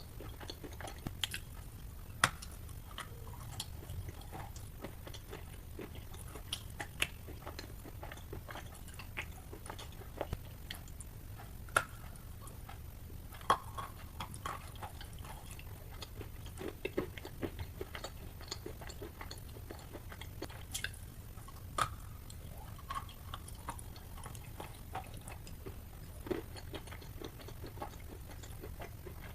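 Wet chalk being bitten and chewed close to the microphone: soft crunches and sharp clicks at irregular intervals, with a few louder snaps, over a steady low hum.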